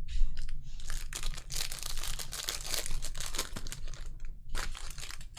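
Crinkling and tearing of a foil trading-card pack wrapper being ripped open and handled. A dense stretch of crackling runs for about four seconds, then a shorter burst comes near the end.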